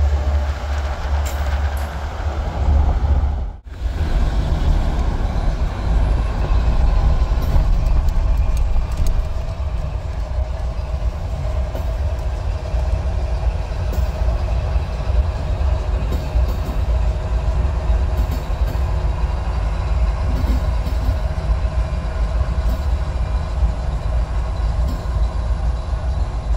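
CN freight train passing: GE diesel locomotives running and railcar wheels rolling over the track, a continuous heavy low rumble. It breaks off abruptly about three and a half seconds in and picks up again at once, with the train still passing.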